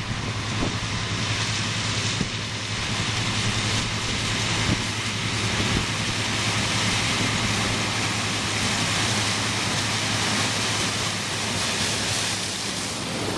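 Combine harvester running steadily while harvesting corn: a constant low hum under an even rush of machine noise, with a few faint knocks.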